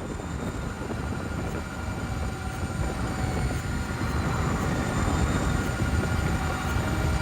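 Steady rushing noise of a vehicle in motion, with faint high steady whines, growing gradually louder.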